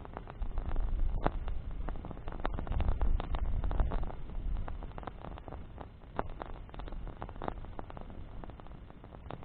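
Campfire of burning branches crackling, with sharp pops at irregular moments over a low rumble that is stronger in the first half.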